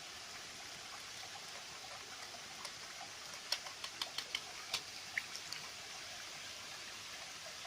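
Steady rush of river water, with a quick run of sharp clicks about halfway through.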